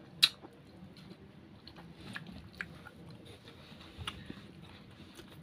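Close-up chewing and mouth sounds of someone eating, with one sharp click just after the start and scattered small clicks after it.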